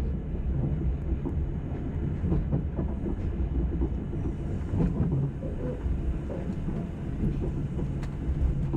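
Railway train running: a steady low rumble with scattered knocks and clunks from the running gear.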